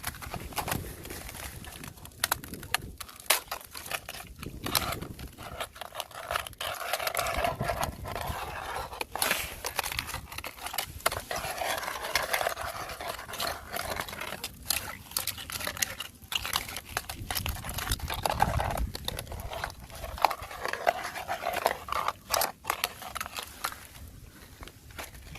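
Crunching and cracking of fresh ice underfoot, with many sharp clicks and knocks. Two stretches of breathy panting come through over it, one in the first half and one later on.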